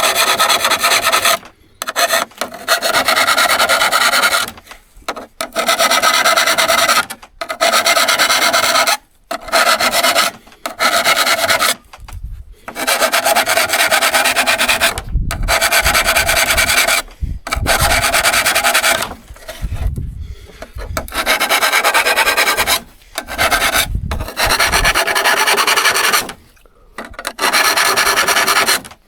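Vintage steel hand saw being worked by hand: repeated scraping strokes of one to three seconds each, broken by short pauses.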